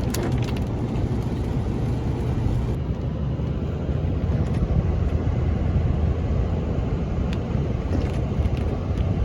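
A pickup truck carrying a camper driving down the road, with a steady rumble of engine and tyres.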